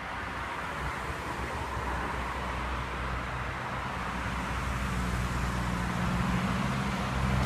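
Road traffic: a motor vehicle drawing nearer, its sound growing steadily louder, with a low engine hum coming in about two-thirds of the way through.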